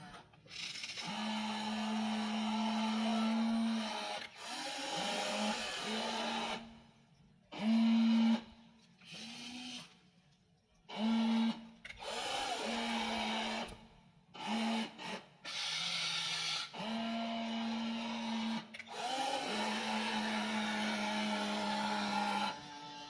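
Small electric motors and gearboxes of a WLtoys RC excavator whirring in repeated short runs, starting and stopping a dozen or so times, each run lasting from under a second to about three seconds.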